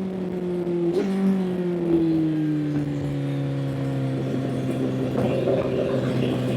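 Honda CBR1000's inline-four engine on the overrun, its pitch falling as the revs drop, with a brief blip about a second in. It then settles into a low, steady run.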